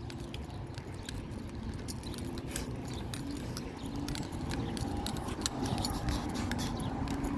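Outdoor ambience: a steady low rumble with many small clicks and rattles, gradually growing louder.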